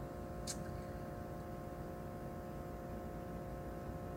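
Steady electrical hum with several faint steady tones, and one brief high click about half a second in.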